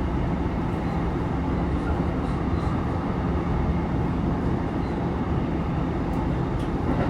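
Running noise of a JR East E233-3000 series electric multiple unit travelling at steady speed, heard from inside the car: an even rumble of wheels on rail with a steady low hum and a few faint light clicks.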